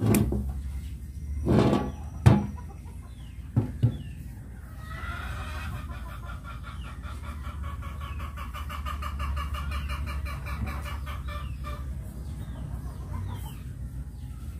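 Chickens clucking, with a few sharp knocks and clunks in the first four seconds, then a long, even run of fast, fine repeated sound for several seconds.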